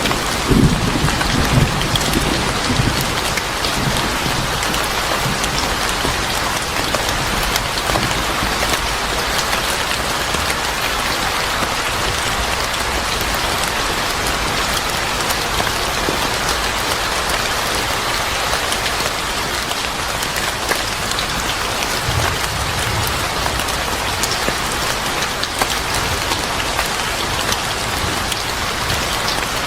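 Steady heavy rain falling on a surface, with a low rumble of thunder in the first few seconds and a fainter rumble about two-thirds of the way through.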